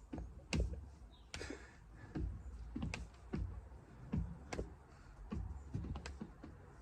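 Irregular light taps and knocks, two or three a second, each a sharp click with a soft low thump.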